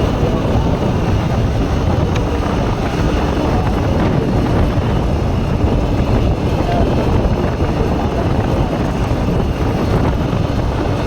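Bajaj Pulsar NS160 motorcycle riding steadily: its single-cylinder engine running under a dense rush of wind over the microphone.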